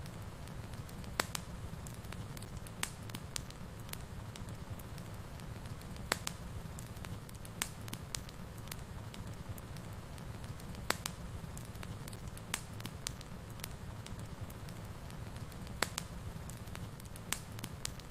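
Fireplace fire burning with a steady low rumble, and sharp crackling pops every second or two.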